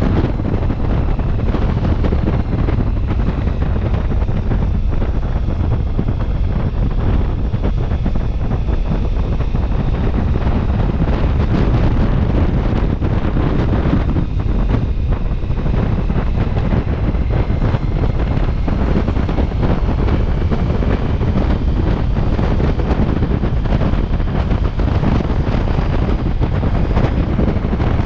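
Wind buffeting the microphone of a camera on a moving motorcycle, a steady low rumble with faint held tones above it.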